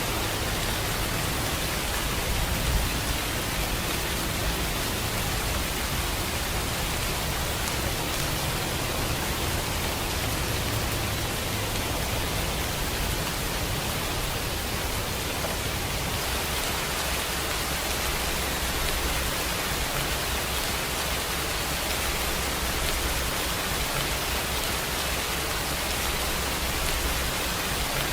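Steady rainfall: an even, dense hiss of rain with a low rumble underneath.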